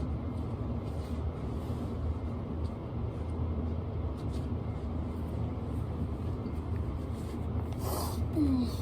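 Steady low background rumble. Near the end a brief rustle-like noise is followed by a short falling squeak.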